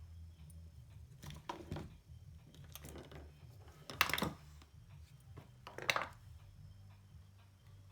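Hands working on an amplifier's USB board and its wires at a workbench: four short scraping, clattering handling noises, the loudest about four seconds in, over a steady low hum.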